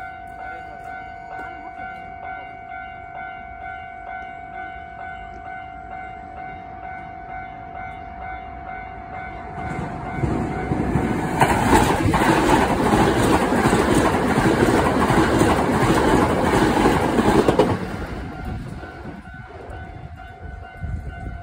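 Japanese level-crossing warning bell ringing, a steady electronic ding at about two a second, then a Hankyu electric train passes close by for about eight seconds, its running noise drowning out the bell; as the train goes the noise fades and the bell is faintly heard again.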